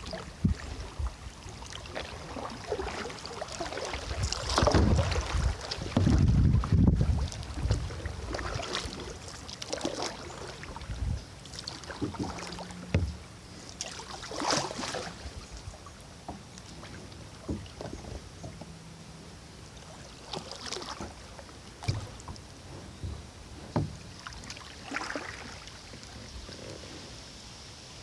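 Kayak being paddled: irregular water splashes and knocks from the paddle strokes. A louder low rumble sits on the microphone between about four and seven seconds in, and the strokes grow sparser and quieter after that.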